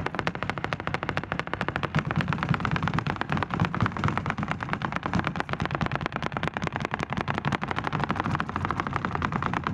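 Rapid, continuous flamenco footwork (zapateado), heel and toe strikes hammering a stage floor in a dense unbroken stream of sharp taps.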